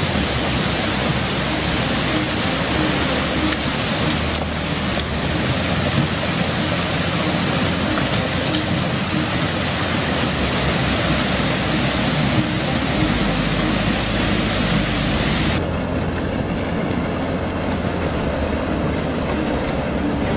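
Steady, loud rushing rumble of a debris flow: a mass of mud and boulders grinding down a rocky mountain channel. About fifteen seconds in the sound turns duller, losing its hiss.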